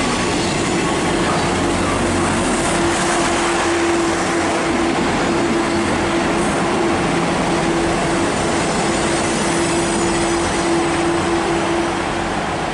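Class 158 diesel multiple unit running at the station platform: a steady diesel rumble with one constant humming tone over it.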